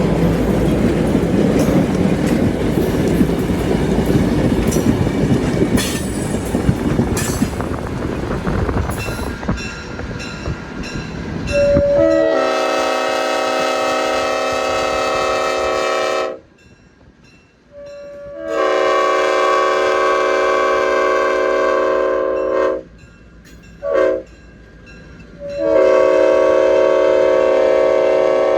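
A train rumbles by, wheels and engine, for about twelve seconds. Then the cab-mounted Leslie RS5T five-chime horn of EMD GP38-3 #2003 sounds a chord in two long blasts, one short and one long: the grade-crossing signal.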